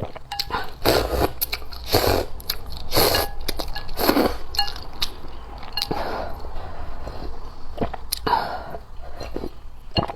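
Close-up eating sounds: loud slurps and chewing of noodle soup about once a second, with small clinks of utensils between them.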